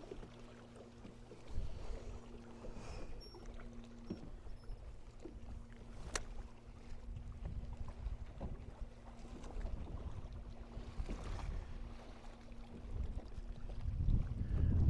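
Bass boat on open water: a faint steady hum that stops and starts a few times over low water and wind rumble. There is a single sharp click about six seconds in, and the wind rumble on the microphone swells loud near the end.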